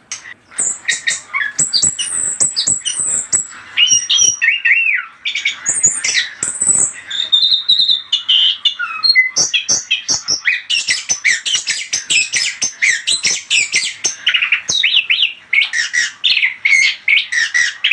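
Orange-headed thrush (anis kembang) singing a fast, unbroken stream of varied chirps, whistled glides and harsh squawky notes, the kind of full song used as a lure to set other anis kembang answering. It starts about half a second in and runs without pause.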